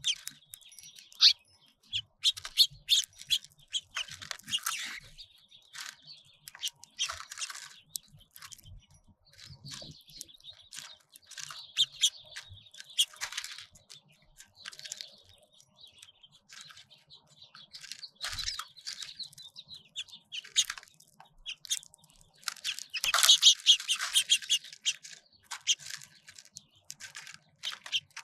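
Small songbirds at feeders chirping and twittering in a steady stream of short, overlapping calls, with a denser, louder spell of chirping about 23 seconds in.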